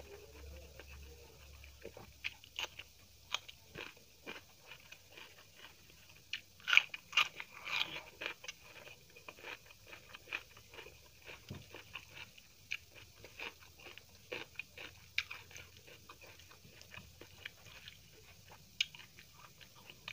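Close-miked eating sounds: a mouthful of rice being chewed, with irregular crunches and wet smacking clicks, loudest in a cluster about seven seconds in.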